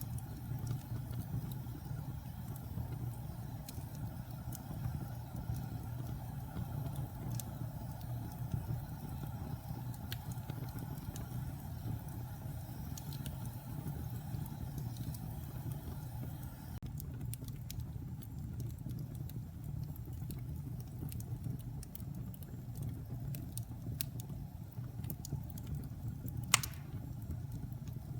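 Wood fire burning in a fireplace: a steady low rumble with scattered small crackles and pops, and one sharp pop near the end.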